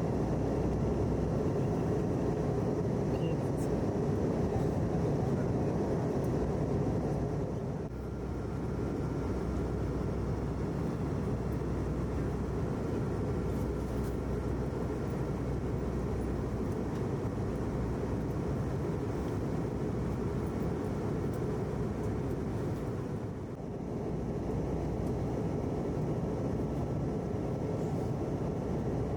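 Airbus A321 airliner cabin noise in flight: a steady, low rushing of engines and airflow with a faint steady whine. It dips briefly twice.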